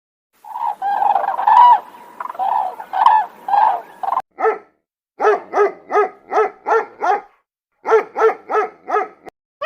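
Dog barking: a run of calls, then quick series of short, sharp barks at about three a second with brief pauses between.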